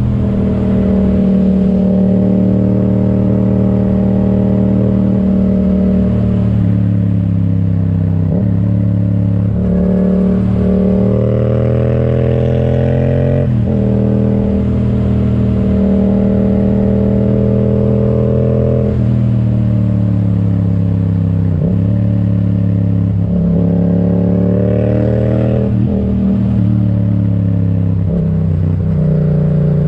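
A Yamaha XSR700's 689 cc parallel-twin engine running through an aftermarket Akrapovic exhaust while the bike is ridden. The pitch climbs under throttle and dips sharply about half a dozen times as the revs drop.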